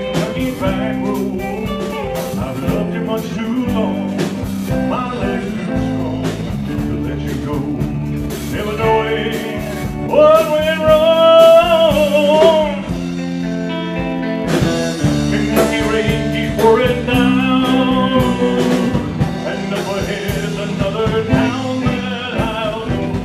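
Live band playing a country-rock ballad, with guitars over a steady bass and drums and a wavering melody line that swells loudest near the middle.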